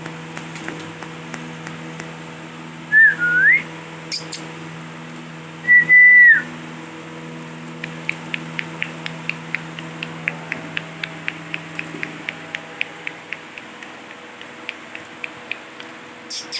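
Ringneck parrot whistling two clear notes: the first dips and then rises, the second is held and then drops. These are followed by a fast run of short, sharp ticks, about four a second, over a faint steady hum.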